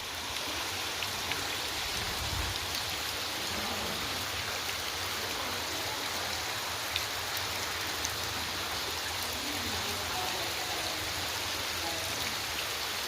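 Steady rush of running water, with a few faint ticks standing out here and there.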